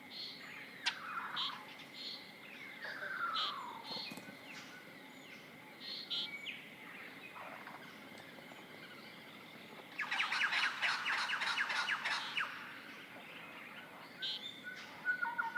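Several birds calling: short high chirps repeating throughout, two falling whistled notes in the first few seconds, and a loud, rapid trill lasting about two seconds from ten seconds in.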